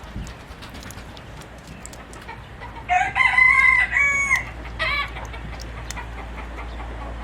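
A rooster crowing once about three seconds in, a held call of about a second and a half that rises, holds and drops at the end, followed by a short cluck-like call.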